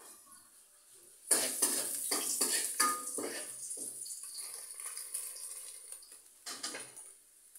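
Food sizzling in hot oil in a steel pot, stirred with a metal utensil that scrapes and clatters against the pot. The sizzle starts suddenly about a second in and fades over a few seconds, with another short burst of stirring near the end.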